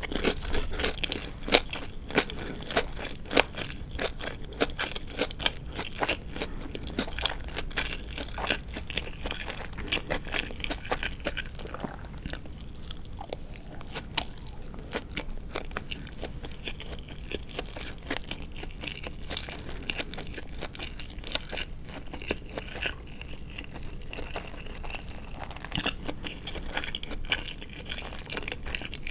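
Close-miked crunchy chewing of crispy deep-fried marinated chicken (tatsuta-age), with many small crackling bites. The crunching is dense at first, eases off to softer chewing midway, and picks up again near the end.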